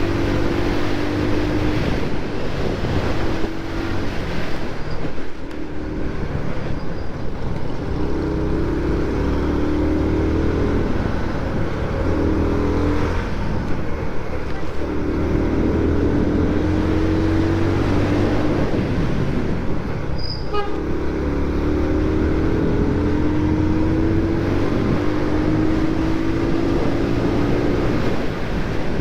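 Motorcycle engine running while riding, its pitch climbing in several stretches of acceleration with drops in between as it changes gear or slows.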